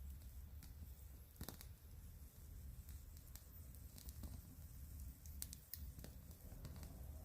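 Wood fire crackling faintly, with scattered sharp pops, a few louder ones about a second and a half in and again about five and a half seconds in, over a low rumble.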